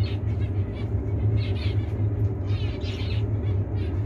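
Zebra finches giving short chirping calls, a couple of bouts about a second and a half and three seconds in, over a steady low hum.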